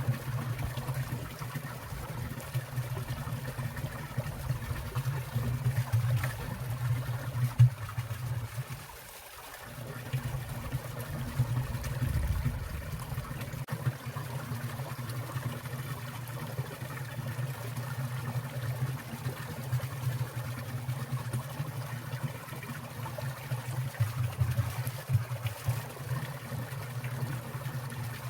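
Water in a winter valley stream trickling and burbling steadily, dipping briefly about nine seconds in.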